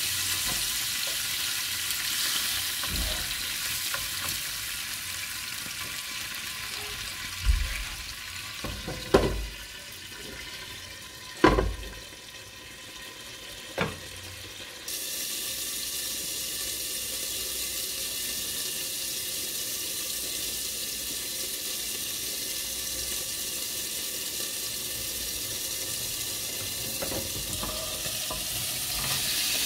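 Food frying in a pan with a steady sizzle, broken by four sharp knocks a little before halfway. The sizzle grows suddenly louder about halfway through.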